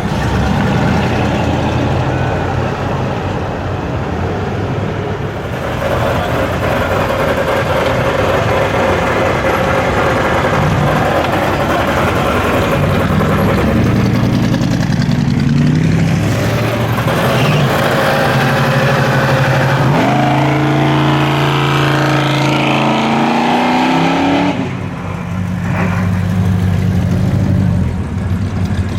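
V8 muscle car engines rumbling as cars drive past at low speed. About twenty seconds in, one engine revs up, its pitch climbing for several seconds before it falls away.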